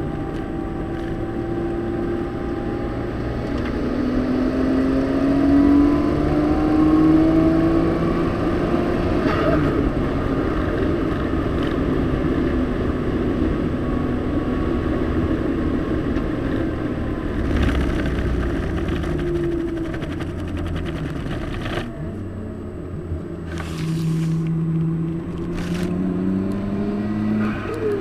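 Car engine heard from inside the cabin at speed on a race track, its pitch rising steadily over the first nine seconds or so under acceleration, then running more evenly, with a few short sharp knocks in the second half.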